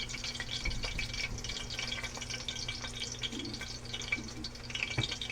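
Curry powder frying in hot oil, a steady light crackling sizzle with scattered small pops. A single sharp knock near the end.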